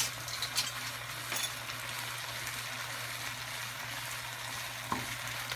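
Tomato-and-onion sauce sizzling steadily in a frying pan, over a low steady hum, with a few faint clicks and a sharper knock near the end.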